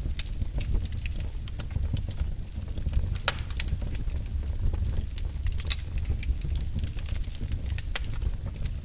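Wood fire burning in a fireplace: a steady low rumble of the flames with irregular sharp crackles and pops, a few louder snaps, one of them about three seconds in.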